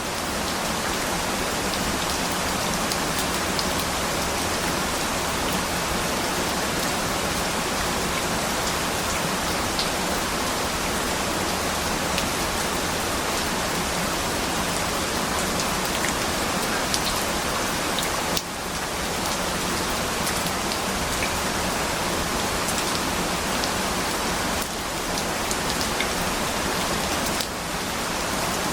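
Steady rain falling on a surface, an even hiss with scattered drop ticks. The level dips briefly three times in the second half.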